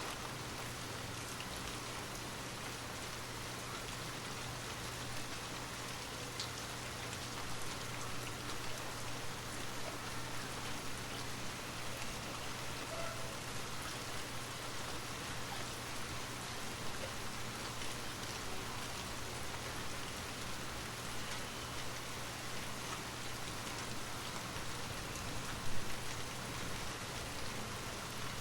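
Steady rain falling, an even hiss with scattered drop ticks. A brief louder sound comes near the end.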